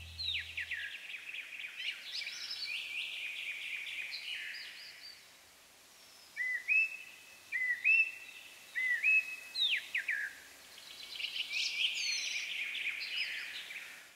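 Birds singing and calling: bouts of short whistled notes, some with quick falling sweeps, repeated several times with a brief lull midway. The sound fades out at the very end.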